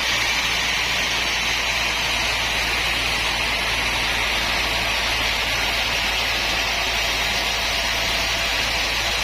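Sawmill machinery running steadily: a constant loud rushing noise over a low hum.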